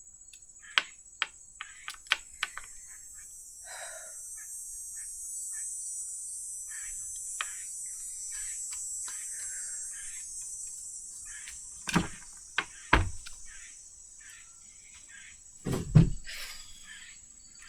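Tarot cards being shuffled by hand: light snapping clicks, then several seconds of soft sliding swish as the cards rub together, with a few dull knocks in the last third.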